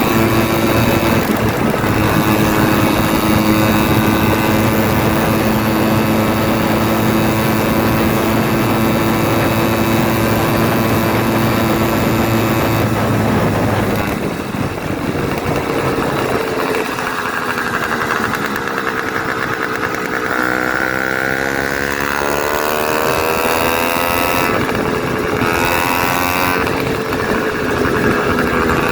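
Zeda 80cc two-stroke motorized-bicycle engine running open, with its muffler cap and air filter removed. It holds a steady high speed for about half the time, then is throttled back, and its pitch slides down and up through the rest before climbing again near the end.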